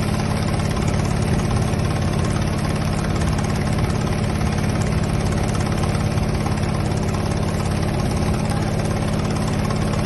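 Engine on a bagang lift-net fishing boat running steadily at an even idle, a constant low hum that does not change.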